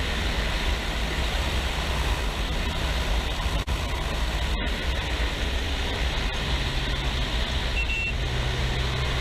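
Kawasaki 250 cc motorcycle running steadily at cruising speed, its engine note low under heavy wind rush on the camera microphone. A brief high beep about eight seconds in.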